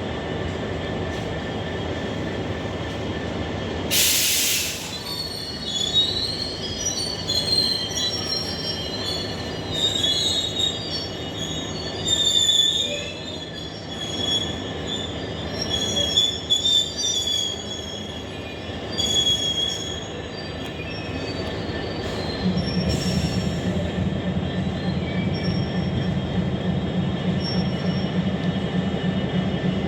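Train wheels squealing on the rails as a train moves slowly, with high screeching tones coming and going over a low rumble, and two short sharp hisses of air. About two-thirds of the way through, a deep, fast-pulsing diesel engine drone starts and holds.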